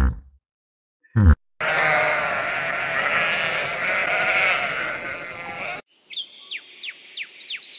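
Several farm animals bleating at once for about four seconds, after a short loud call near the start. It stops suddenly, and high chirps that fall in pitch, a few a second, follow near the end.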